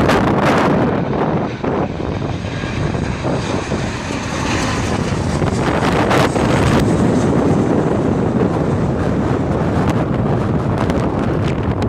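Jet airliner's engines running, a loud, steady rumble.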